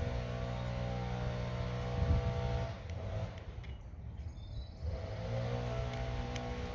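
Small petrol engine of the mower running. Its sound fades out for about two seconds mid-way, then comes back, rising in pitch.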